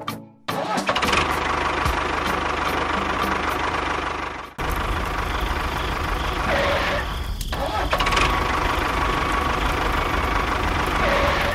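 A small engine starts up about half a second in and runs steadily with a fast, rattling beat. It breaks off abruptly for a moment about halfway through, then runs on.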